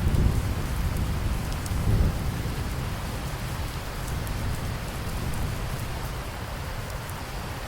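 Steady heavy rain with scattered close drop ticks, under a low rolling rumble of thunder that swells twice in the first two seconds and then slowly dies away.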